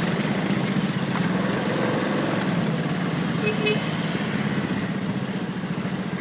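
Motorcycle engine running steadily under a haze of street traffic noise, picked up by a phone mounted on the bike.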